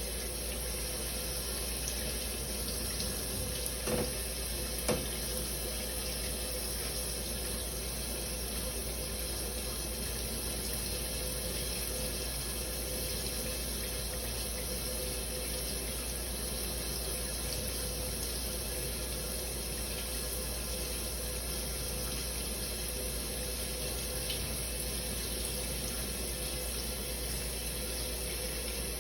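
A running shower: a steady spray of water hissing down, with two brief soft knocks about four and five seconds in.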